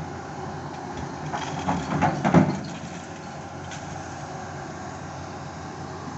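Heavy equipment running steadily, with a short run of loud clanks and creaks about two seconds in.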